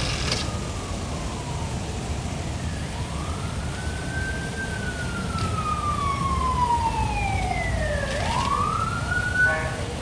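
Emergency vehicle siren wailing: one slow rise, a long slow fall, then a quick rise again near the end, over a low, steady traffic rumble.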